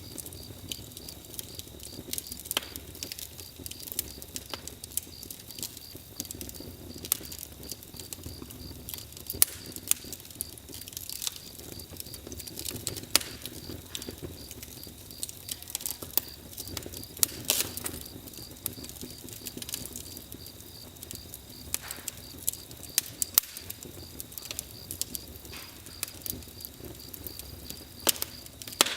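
Campfire burning, with irregular sharp crackles and pops of the burning wood over a steady low hiss.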